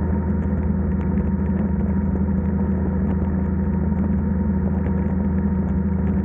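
Motorcycle engine running at a steady speed while riding, a constant low drone with road and wind noise, holding an even pitch throughout.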